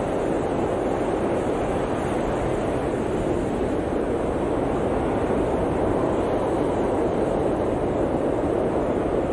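Blizzard wind blowing steadily, a dense even rush with its weight in the low-middle range and no single gust or event standing out.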